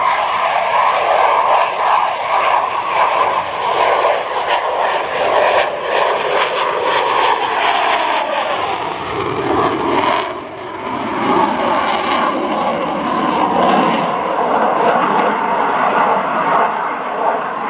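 Saab JAS 39 Gripen's single Volvo RM12 turbofan jet engine, loud and continuous as the fighter flies a display. The pitch drops as it passes about nine to eleven seconds in, then the engine keeps going.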